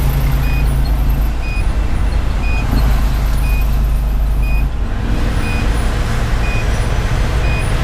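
Detroit Series 60 diesel engine of a Pierce Velocity fire engine running under way, heard from inside the cab, its note shifting twice. A short electronic beep repeats about twice a second over it.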